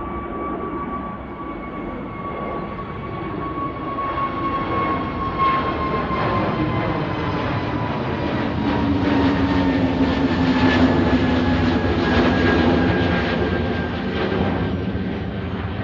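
Airliner departing, its engines' rumble building to a peak about eleven seconds in and easing off, with a whine that slowly falls in pitch as it passes.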